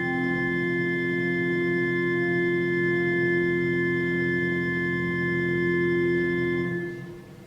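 Organ holding a long sustained chord, with an inner voice moving between notes, then releasing the chord about seven seconds in, leaving a brief fading echo.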